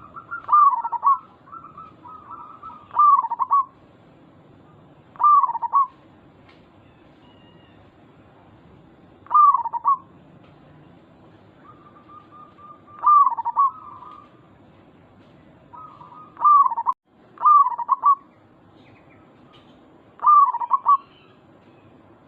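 Zebra dove (perkutut) cooing: about eight short coo phrases, each under a second and spaced a few seconds apart, a few of them led in by a faint steady note.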